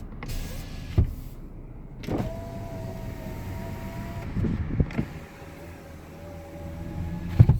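2017 Lincoln MKX power window motors running twice, each a steady whine of about two seconds, with sharp clicks between the runs and a louder thump near the end.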